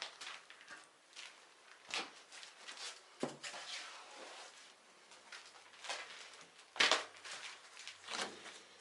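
Bricklaying by hand: irregular scrapes of a trowel in cement mortar and knocks of bricks being set, with the loudest knock about seven seconds in.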